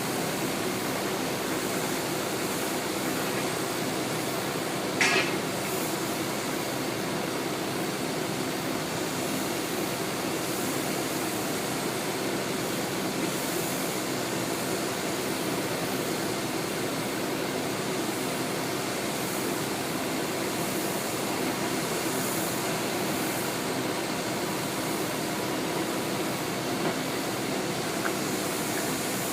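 Steady mechanical rumble and hiss, with one brief sharp sound about five seconds in and a fainter one near the end.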